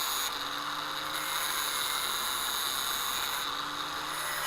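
Steady mechanical hiss and hum with fixed high-pitched whining tones, which drop out briefly twice.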